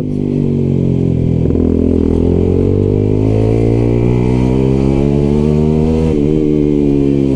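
125 cc motorcycle engine pulling under acceleration, its pitch climbing steadily for about six seconds, with a brief dip about six seconds in as with a gear change, then pulling on.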